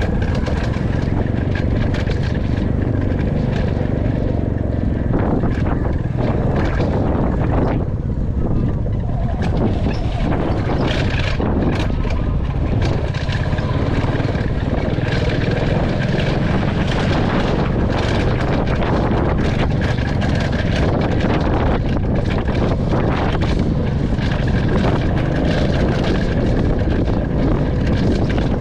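Royal Enfield Classic 350's single-cylinder engine and exhaust running steadily while the motorcycle is ridden.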